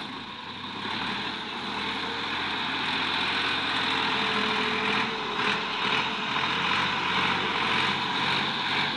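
Tractor engine running steadily, getting louder about a second in.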